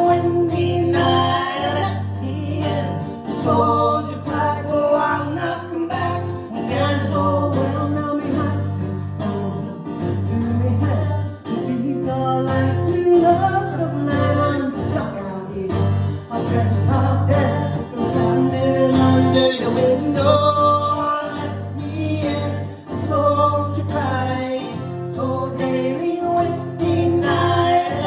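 A traditional folk song: sung vocals over a steady bass and plucked-string accompaniment.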